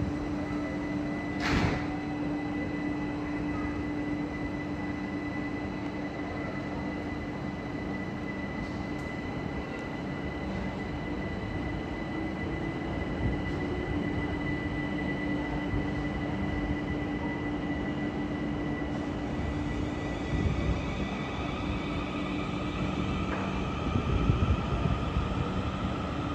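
Electric train at a station: a steady hum with a higher steady tone above it, a single sharp click about a second and a half in, and further higher tones joining near the end.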